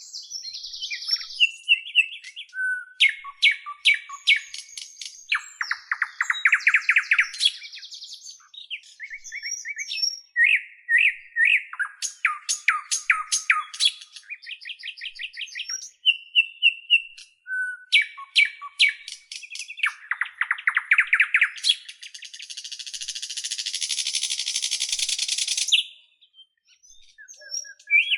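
A bird singing a long, varied song of short whistles, rapid clicking trills and buzzy notes, repeating much the same sequence about halfway through. Near the end it gives a long rasping hiss that stops suddenly.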